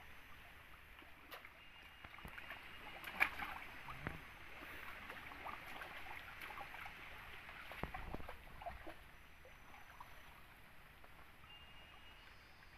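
Stream water running steadily, with scattered small splashes and knocks from hands or gear working in the water around three, four and eight seconds in.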